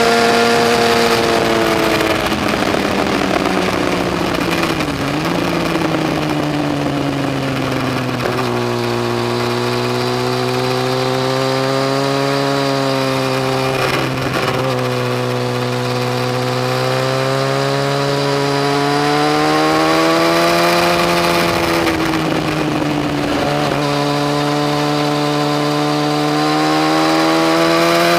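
Yamaha FZ1's inline-four engine running as the motorcycle is ridden, its pitch falling over the first several seconds and then rising and falling gently with the throttle, over a steady rush of noise.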